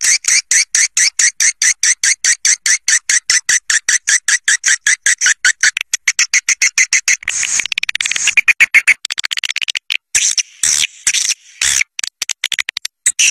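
Swiftlet calling sound: rapid, evenly repeated high chirps, about six a second, turning denser and more irregular after about seven seconds, with short breaks near the end. This is the twittering played to attract swiftlet flocks to a nesting house.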